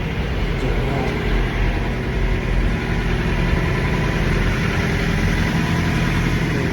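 Semi-truck engine idling steadily, a low even hum with no change in pitch.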